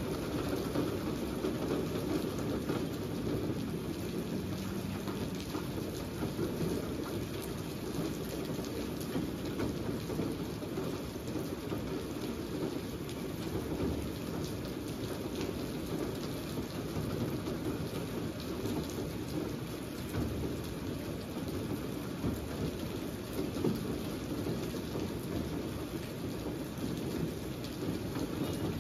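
Steady rain falling on a wet asphalt street and puddles: a continuous, even hiss with a heavy low rumble underneath.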